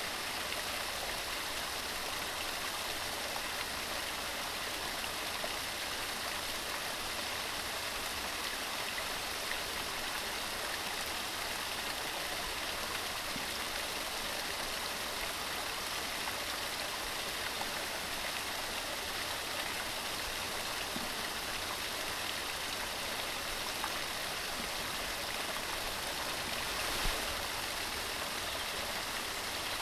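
Upland mountain stream running over rocks: a steady rush and babble of water, with one slightly louder splash near the end.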